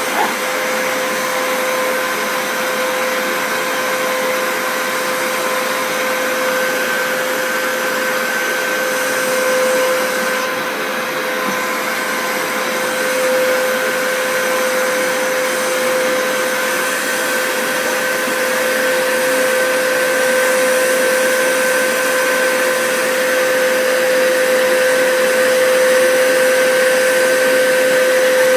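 Vacuum cleaner running steadily: a constant rush of air with an even motor whine, holding at one pitch throughout.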